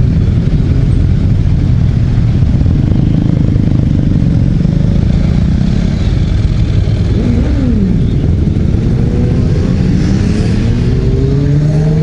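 Motorcycle engines running over a heavy, steady low rumble. From about seven seconds in, several engine notes rise and fall as the bikes rev and pull away.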